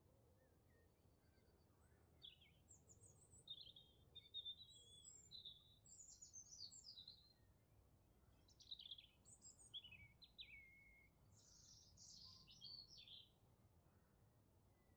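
Faint birdsong: several short, high chirps and trills, starting about two seconds in and stopping near the end, over a low steady hiss.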